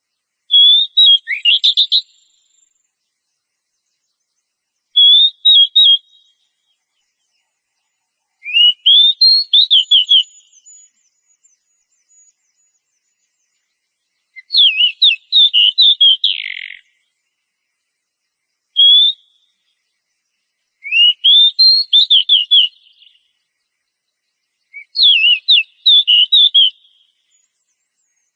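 Oriental magpie-robin singing in short phrases of rapid whistled notes, about seven phrases in all, separated by pauses of a couple of seconds.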